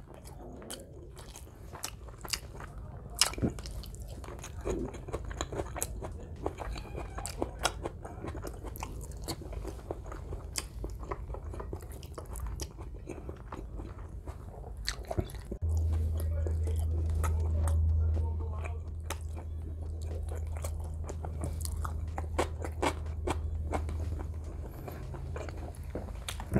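Close-miked chewing of a mouthful of beef steak, bopis and rice, full of small wet mouth clicks and smacks with some crunching. A low steady hum comes in a little past halfway and fades near the end.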